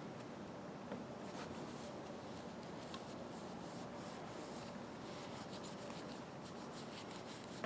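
Faint, light rubbing and handling: a rag being worked over a pair of pliers and their handles, with a few soft scuffs.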